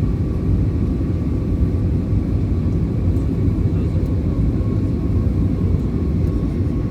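Airliner cabin noise: a steady, dense low rumble of engines and airflow heard from inside the passenger cabin, with a faint thin steady tone above it.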